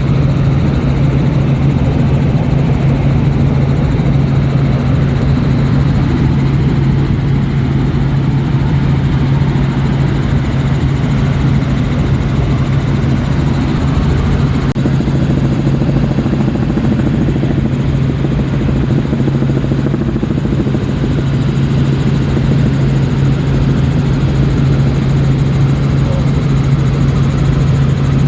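Tour helicopter in flight, heard from the cabin with the doors off: a loud, steady drone with a strong low hum over a rush of noise.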